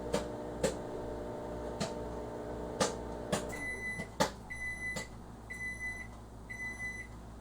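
A microwave oven runs with a steady hum while popcorn inside gives a few sharp pops. The hum stops about three and a half seconds in, and the oven beeps four times, about once a second, to signal that it has finished.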